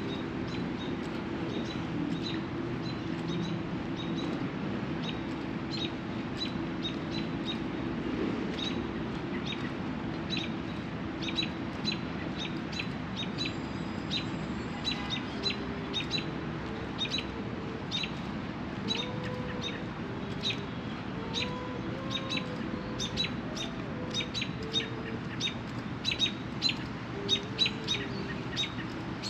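Small birds chirping in quick, short notes, a few each second, growing louder near the end, over a steady low background hum.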